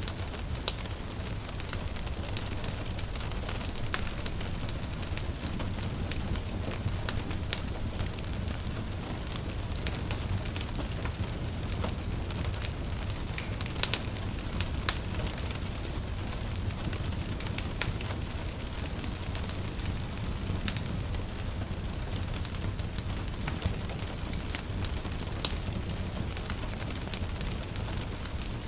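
Wood fire crackling and popping in a fireplace, with many small snaps and a few louder pops, over a steady patter of gentle rain and a low rumble.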